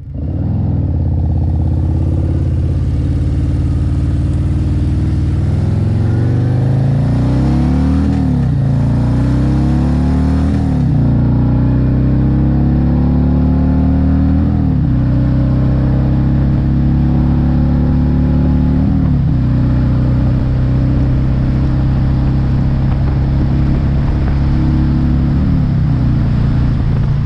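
A 2024 Harley-Davidson Road Glide's Milwaukee-Eight 117 V-twin accelerating on the road. The engine note climbs, then drops sharply as it shifts up, several times.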